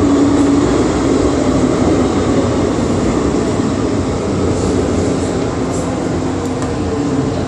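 MTR Island Line metro train running between stations, heard from on board: a loud steady rumble and rush of wheels and motors, with a low hum that drifts slightly down in pitch as the noise eases a little.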